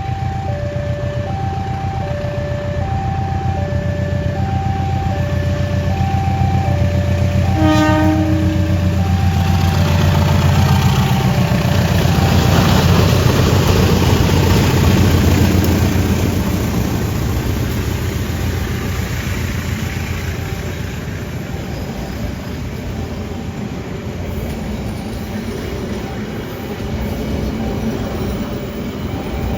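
Level-crossing alarm sounding its two alternating tones while a diesel locomotive passes with a heavy drone and gives a short horn blast about eight seconds in. The train's carriages then roll by, the wheel noise swelling and fading away.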